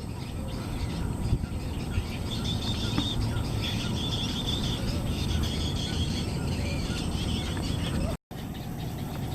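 Steady low rumble of wind on the microphone, with faint, high, broken bird calls over it for a few seconds in the middle.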